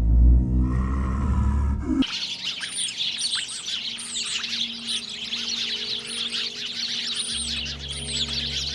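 A low rumble for about two seconds, then an abrupt cut to a dense chorus of many small birds chirping continuously.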